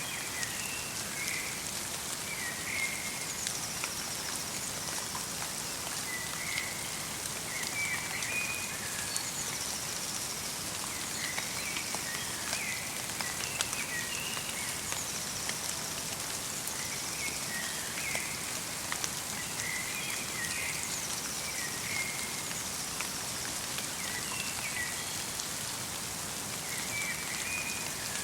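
Steady light rain falling in a forest, pattering with many small drop ticks, while a small songbird calls in short chirping phrases every few seconds.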